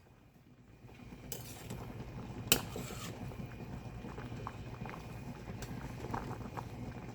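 A pot of water boiling, a steady low bubbling that fades in about a second in, with one sharp clink about two and a half seconds in and a few faint ticks later.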